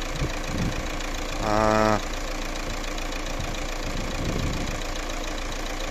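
Freshly overhauled Fiat Doblo 1.9 JTD four-cylinder turbodiesel idling steadily while it warms up.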